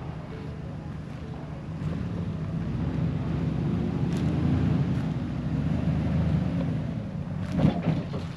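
A vehicle engine running with a steady low hum that builds up and then eases off, with a short, louder sound near the end.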